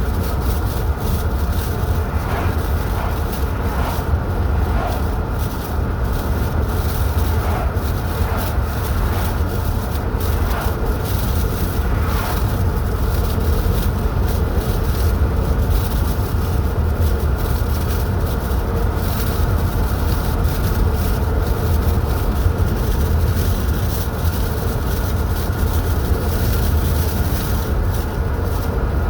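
A car driving along a mountain highway: steady road and engine noise, mostly a low rumble.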